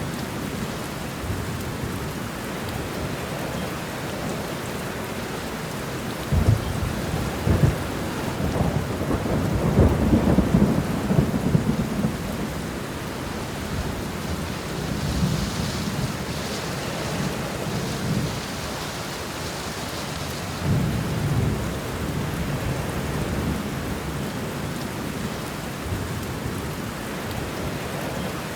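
Steady heavy rain with rolling thunder. A long low rumble builds from about six seconds in and is loudest around ten seconds, and a shorter rumble comes about twenty seconds in.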